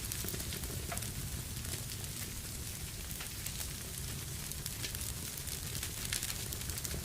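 Wood fire burning in a fireplace: a steady hiss and low rumble with frequent small crackles and pops.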